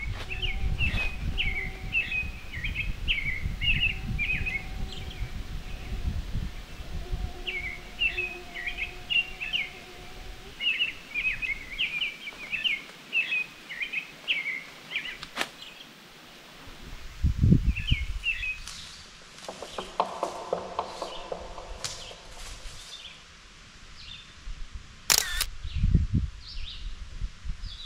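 Small birds chirping in quick repeated phrases, busiest in the first ten seconds. A low rumble runs underneath at first, and a couple of dull thumps come later.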